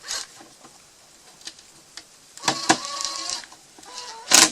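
Electric drill running in short bursts while drilling holes in a plastic yogurt cup: a run of about a second starting about 2.5 s in, and a brief, louder burst near the end.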